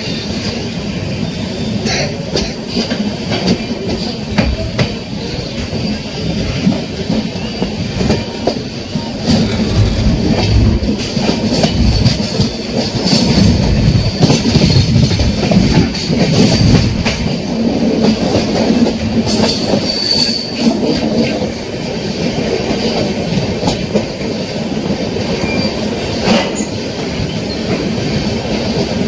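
Moving passenger train's wheels running on the rails, clattering over rail joints, with a high wheel squeal coming and going. The rumble is louder through the middle.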